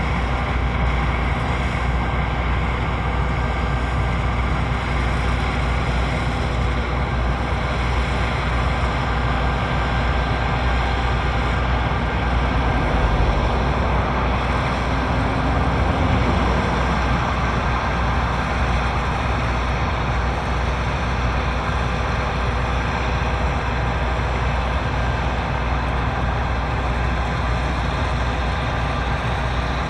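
John Deere 9640i WTS combine harvester running steadily, a strong low rumble with several steady whining tones from the engine and machinery.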